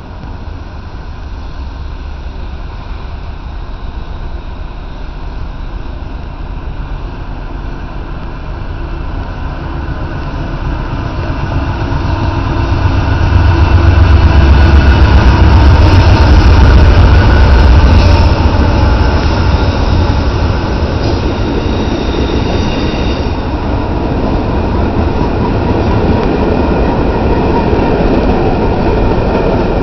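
Freight train hauled by two Norfolk Southern diesel locomotives approaching and passing close by. It grows steadily louder until the locomotives rumble past about halfway through, then the freight cars roll by with a steady rumble and rattle of wheels on the rails.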